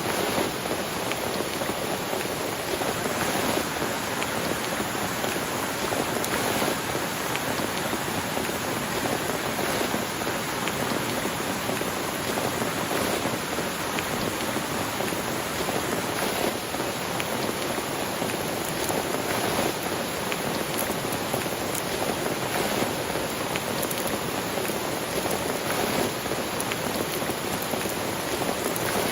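Steady rain falling, many close-spaced drops striking a surface in a dense, even hiss without let-up.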